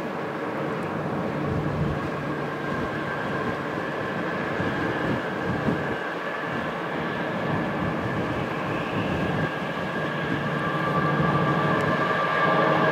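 Train approaching and getting louder: a low steady drone with higher steady tones that strengthen toward the end.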